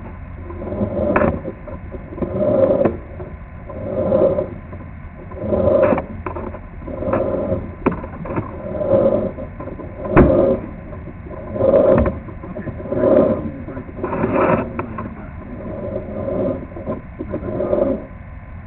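Sewer inspection camera's push cable being pulled back out of the drain line in repeated strokes. It makes a rasping swell about every second and a half, with occasional sharp clicks, and stops shortly before the end.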